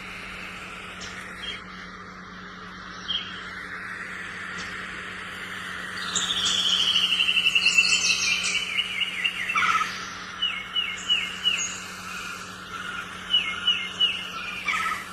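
Birdsong over a steady background hiss and low hum, most likely one of the MP3 player's built-in nature-sound tracks. About six seconds in comes a descending trill of rapid chirps, followed by several runs of short repeated chirps.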